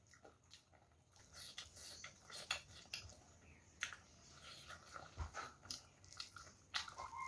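Close-up mouth sounds of someone eating rice and curry by hand: soft chewing with irregular wet lip smacks and clicks.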